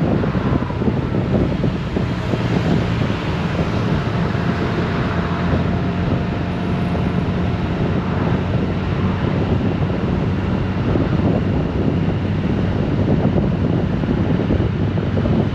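Wind buffeting the microphone on a moving Honda Gold Wing motorcycle, over the steady hum of its engine at cruising speed.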